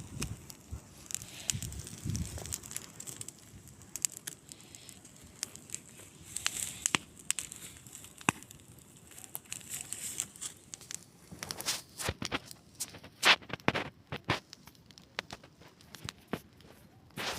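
Wood campfire crackling, with scattered sharp pops and snaps that come more thickly in the second half; the loudest snap falls a little past two-thirds of the way through.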